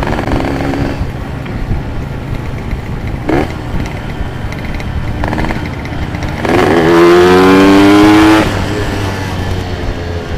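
Suzuki RX King two-stroke motorcycle engine running while riding, with a steady low drone. About two-thirds of the way through, a loud rising pitch for about two seconds as the engine revs up.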